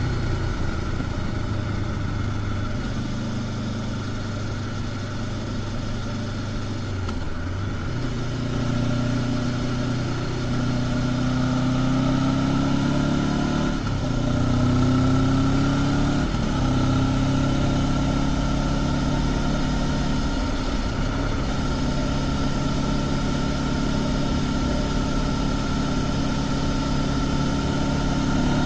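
Honda CB500X's parallel-twin engine running through its stock exhaust while riding. Its note drops briefly and climbs again a few times, then holds steady.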